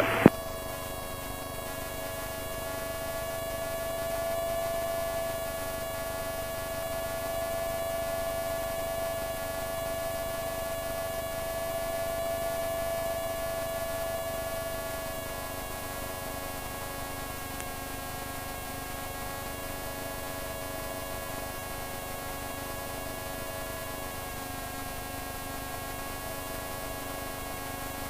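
Microlight's engine droning steadily in flight, heard as a pitched hum through the cockpit intercom, with the pitch drifting slightly a few times.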